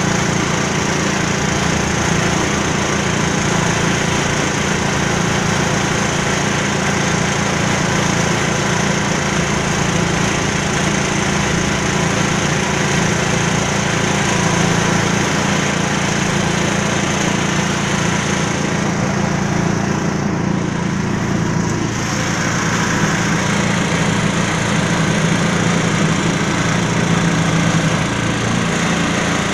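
Small diesel engine of a concrete mixer running steadily at constant speed. Its hiss thins briefly about twenty seconds in.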